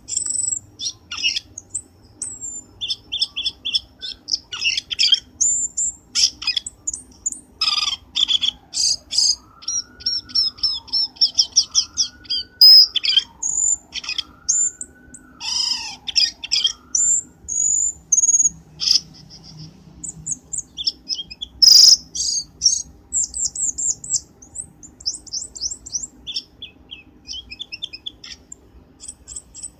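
Cucak keling calling: a dense run of sharp chirps, fast trills and short high whistles, with a few slower up-and-down swooping notes in the middle.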